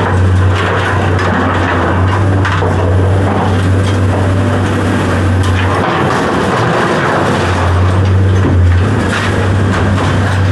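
A large engine running steadily, with scattered sharp knocks. The low hum dips briefly about six seconds in and then returns.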